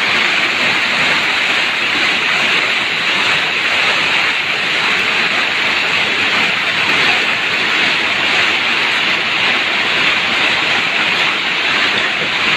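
Torrential rain pouring down in a loud, steady rush.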